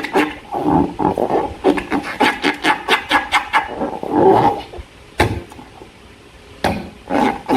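Slime being squeezed and worked by hand: wet squelching with quick runs of crackling pops from trapped air. A sharper click comes a little past the middle, then the sound goes quieter for a second or so before the squishing picks up again near the end.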